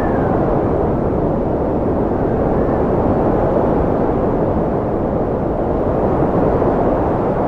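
Steady, strong wind blowing with a deep, low rumble and no gusty breaks, and a faint brief whistle about three seconds in.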